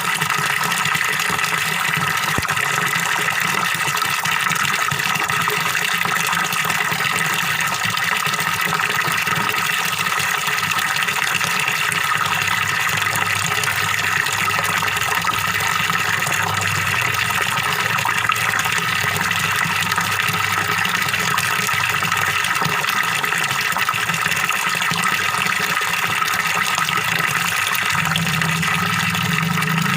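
Waterfall splashing steadily into a fish pond, with a continuous, even rush of water.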